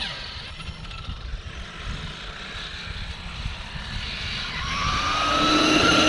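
Brushless electric motor and drivetrain of a 1/5-scale RC short course truck (Hobbywing Max 5 on 8S): a low rumble, then a few seconds in a rising whine that grows loudest near the end as the truck speeds up.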